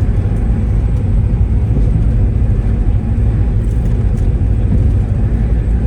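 Steady, loud low engine rumble of a vehicle carrying the recorder, unchanging throughout.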